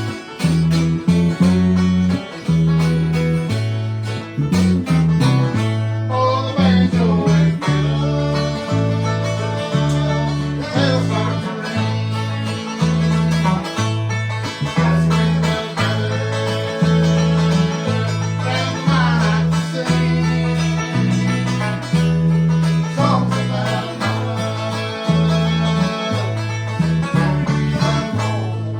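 A bluegrass band playing an instrumental at a brisk pace: banjo and guitar picking over a steady bass line that alternates between two notes.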